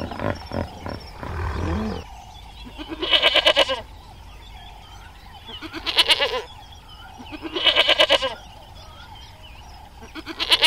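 Goat bleating four times, a few seconds apart, each a loud, quavering 'baa' lasting under a second. The bleats follow about two seconds of low grunting.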